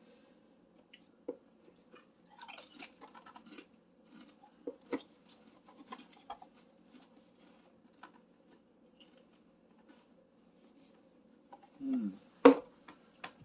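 Scattered crinkles and crunches of a snack bag and potato chips being eaten, loosest and busiest about two to three seconds in. Near the end there is a short hummed voice and one sharp loud click.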